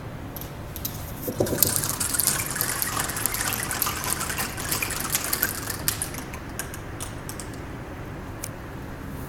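Shower of small iron balls pattering down like rain: a dense hiss of many tiny ticks starts about a second and a half in, then thins out to scattered single ticks near the end.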